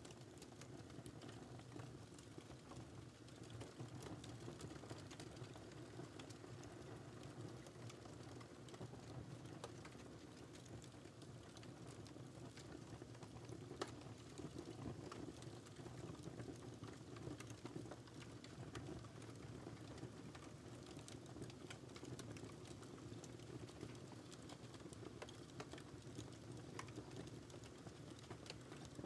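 Wood fire crackling in a fireplace: a soft steady rumble of flames with frequent small pops and snaps, one a little louder about halfway through.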